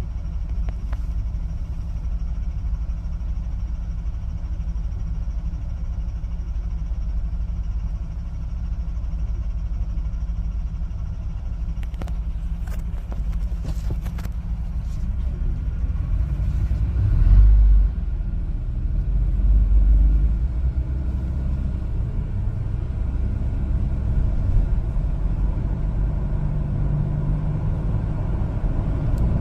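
One-ton LPG cargo truck driving on the road: a steady engine and road rumble, with a few light clicks and two brief louder swells about two-thirds of the way through.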